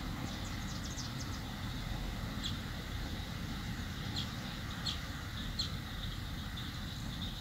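Short, high bird chirps several times over a steady low rumble.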